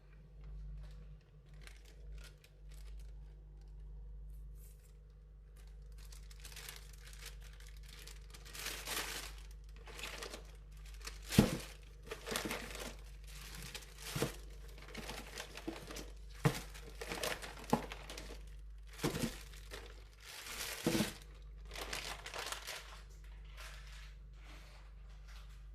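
Packaging crinkling and rustling as it is handled by hand, in irregular bursts with a few sharper crackles, over a low steady hum.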